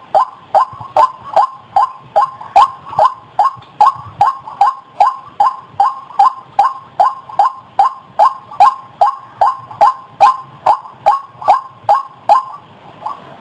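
White-breasted waterhen (ruak-ruak) calling: a fast, regular series of harsh notes, about two and a half a second, the rhythm loosening near the end.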